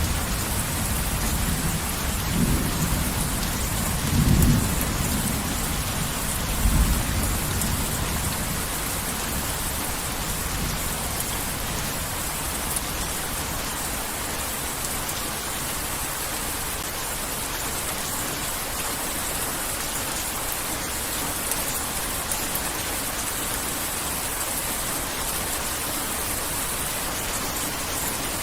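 Heavy rain falling steadily, with rolls of thunder rumbling low in the first few seconds, the loudest about four seconds in, then rain alone.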